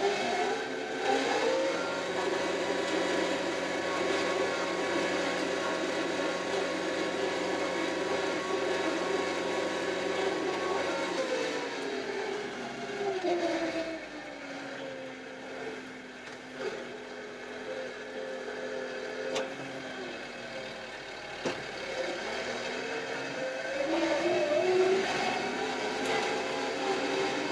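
Kioti RX7320 tractor's diesel engine revving up, holding high revs, dropping to a lower speed about halfway through, then revving up again near the end.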